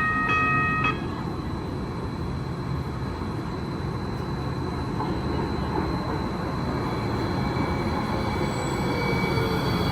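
Low, steady rumble inside a Hudson-Bergen Light Rail car, growing slightly louder. A loud steady electronic tone sounds for about a second at the start.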